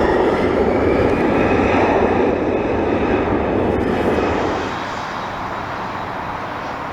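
Boeing 777-9's GE9X jet engines running as the airliner passes on its landing, a loud rush with a whine above it that eases off about four and a half seconds in.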